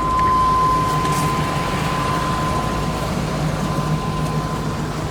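Truck engine idling steadily, with a steady high whine that fades out near the end.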